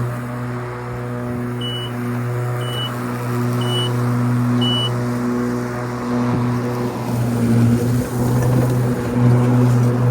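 Ryobi 80V electric riding lawn tractor mowing, its motors and spinning blades giving a steady hum. In the first half there are four short electronic beeps about a second apart.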